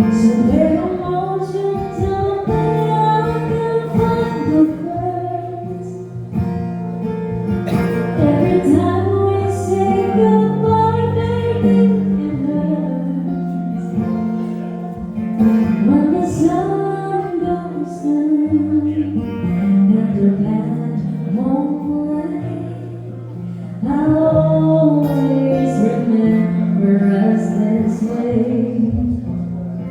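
A woman singing a song live, accompanied by acoustic guitar.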